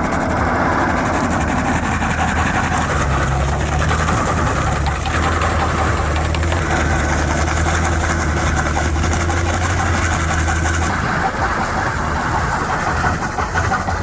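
Heavy engine running steadily with a low hum, under dense mechanical clatter and rattling; the hum drops away about three-quarters of the way through.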